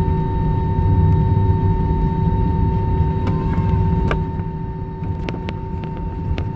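Airliner cabin noise after landing: a steady low rumble with two steady whining tones running through it, and a few sharp clicks in the second half.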